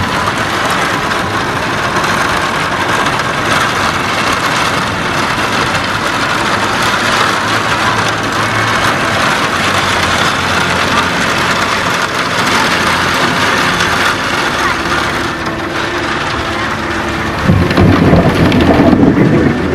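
Heavy rain falling steadily, with a louder low rumble coming in near the end.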